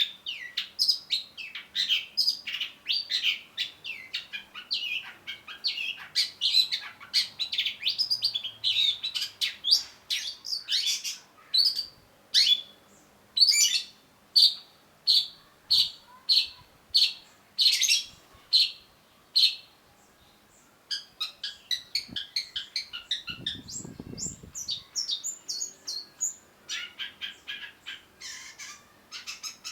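Long-tailed shrike singing: a fast run of varied high chirps and whistles, then a series of sharp, evenly spaced notes about two a second, a short pause, then quick chattering phrases.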